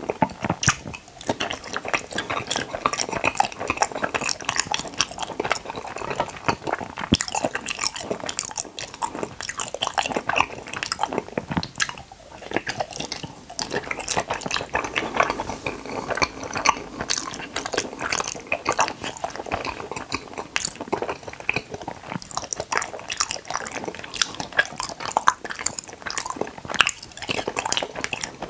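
Close-miked chewing of Kororo fruit gummy candies: a continuous run of wet, squishy mouth clicks and smacks as the soft gummies are bitten and chewed.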